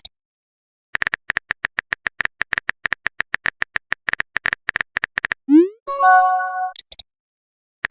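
Rapid run of short electronic typing clicks, about ten a second for some four seconds, then a rising bloop and a short synthesized chime ending in two high blips: a messaging app's typing and message notification sound effects.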